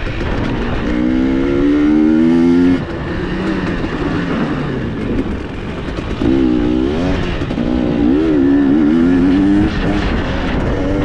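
KTM dirt bike engine revving hard under acceleration, its pitch climbing, then the throttle is shut off sharply about three seconds in. It picks up again past six seconds with the pitch rising and falling, and is chopped again near the end, over a steady rush of noise.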